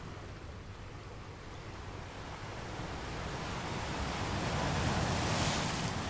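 Ocean waves: a steady wash of surf that builds slowly, grows loudest about five seconds in, and eases off near the end as a wave sweeps through.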